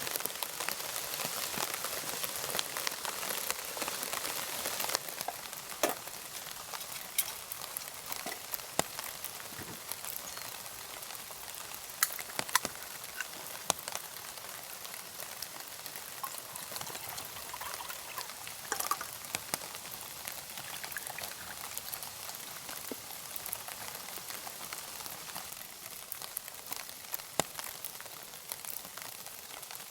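Wood campfire crackling: a steady hiss with scattered sharp pops.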